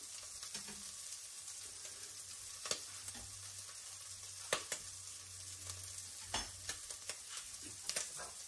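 Pancetta, onion and garlic sizzling in hot fat in an enamelled Dutch oven over medium heat, a steady frying hiss with a few sharp clicks scattered through it.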